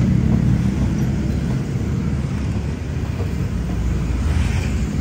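Thai Railways passenger coaches rolling past on the track: a low, steady rumble of steel wheels on the rails, easing a little as the last coaches go by.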